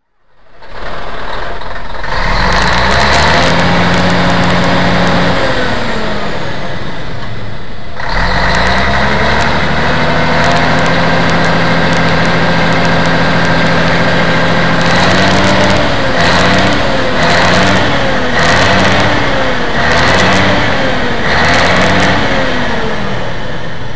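Scania bus engine revving. It climbs and holds for a few seconds, then drops away. It climbs again and holds for several seconds, then gives a run of about six short revs, roughly one a second.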